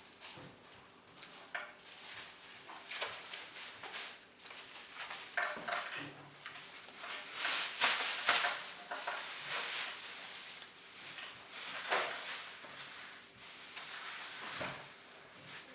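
Irregular clatter of things being handled: scattered knocks, clicks and scrapes.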